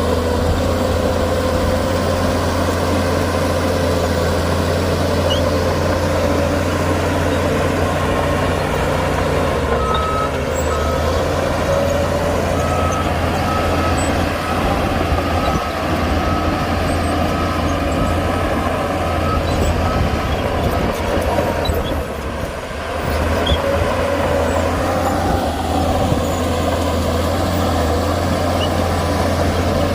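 Heavy diesel engine of earthmoving machinery running steadily. A reversing alarm beeps in a regular series for about ten seconds in the middle.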